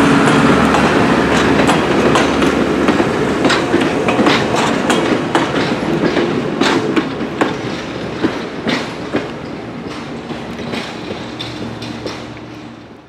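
Excursion train's cars rolling past and clicking over rail joints in an irregular clickety-clack, fading steadily as the train moves away.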